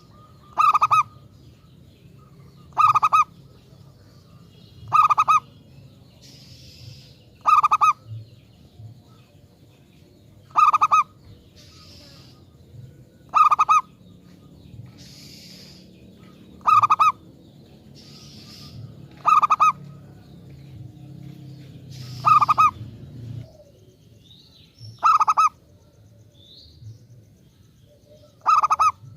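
Zebra dove (perkutut) cooing its rapid pulsed song phrase, repeated eleven times at about one phrase every two and a half seconds.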